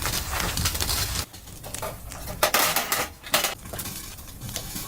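Cookware and utensils clinking and knocking, a few separate sharp clinks.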